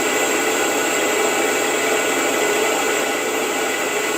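Wood lathe running steadily with a skew chisel taking light smoothing cuts across a paua shell inlay and blackheart sassafras lid, a constant whirring hiss with a steady hum.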